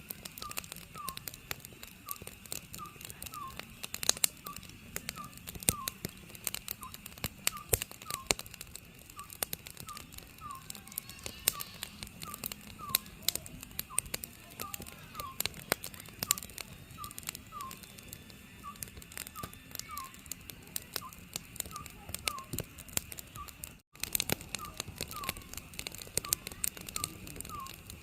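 An Oriental scops owl calling, a short, slightly falling hoot repeated about once a second, over a wood fire crackling and popping.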